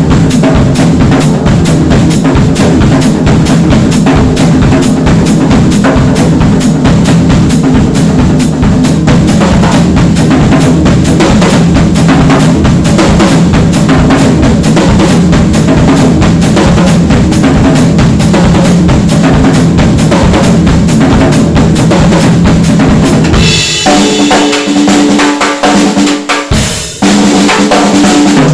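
Sound Percussion Labs Unity 2 drum kit played at a steady groove, with kick and snare hits under Soultone NOA cymbals. Near the end the kick drops out for a few seconds and ringing pitched tones carry through a short break.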